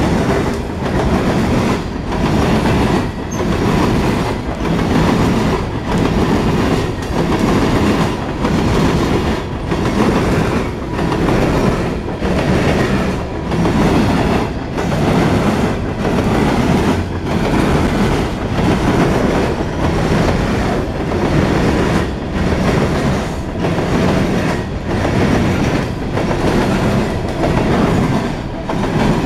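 Coal train's hopper cars rolling past at close range, steel wheels clattering over the rails in a steady clickety-clack, with a surge about every second and a half as each car passes.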